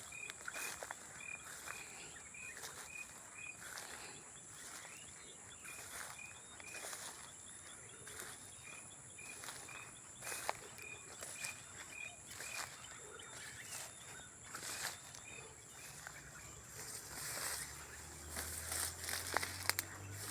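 Outdoor nature ambience: insects trilling steadily and high, an animal's short call repeated about three times a second in several runs, and scattered sharp clicks. A low hum comes in near the end.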